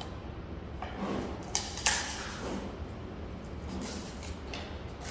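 Giant panda eating bamboo, stripping and crunching the stalk, with a few sharp cracks in the first two seconds and quieter ones later.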